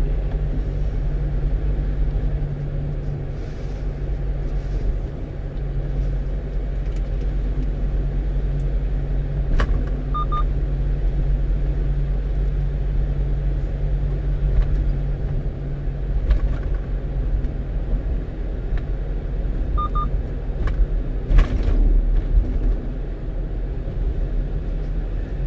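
A 1-ton truck's engine and road noise heard from inside the cab while driving, a steady low drone. A short high double beep sounds about every ten seconds.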